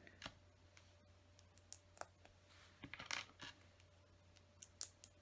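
Small plastic LEGO pieces clicking and clinking as they are handled and pressed together: faint, irregular light clicks, a few bunched together about three seconds in.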